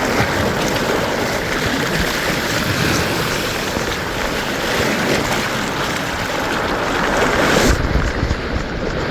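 Steady rush of falling water from a waterfall. About eight seconds in there is a brief louder low surge, and the sound turns duller.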